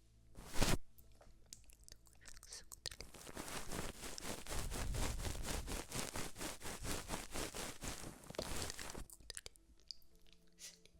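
Close-miked ASMR trigger sounds: a single sharp click about half a second in, then about six seconds of rapid, even, crisp crackling that fades out.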